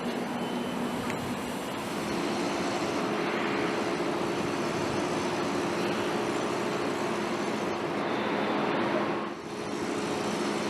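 Steady mechanical running noise with a faint hum, like heavy machinery or a large vehicle; it dips briefly about nine seconds in.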